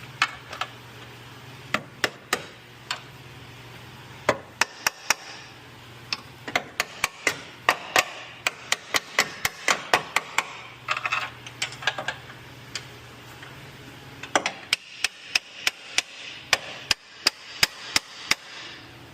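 Hand hammer blows, dozens of sharp strikes in irregular runs of a few a second, pausing briefly a few seconds in and again about two-thirds of the way through, as a car's lower control arm is worked into place.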